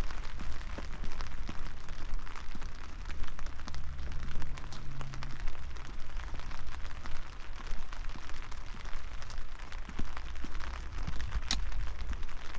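Steady rain falling, a dense patter of drops over a low rumble, with one sharper tick near the end.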